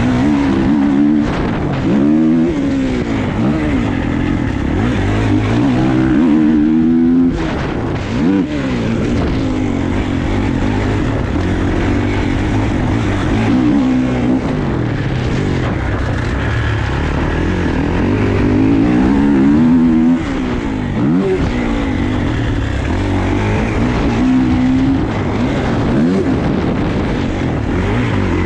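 Dirt bike engine revving up and dropping back again and again as it is ridden, its pitch rising and falling every couple of seconds, with a sudden break about seven seconds in and again about twenty seconds in.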